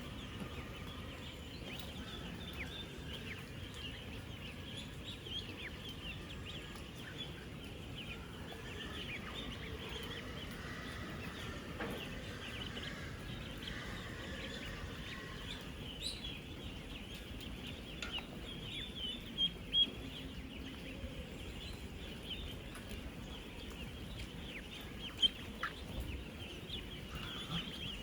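A large flock of ten-day-old ducklings peeping continuously, a dense chorus of many overlapping high chirps over a low background rumble, with a few brief louder sounds near the end.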